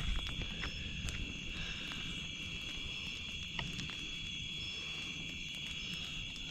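Steady high-pitched chorus of night insects such as crickets or katydids, over a low rumbling noise, with a couple of faint clicks.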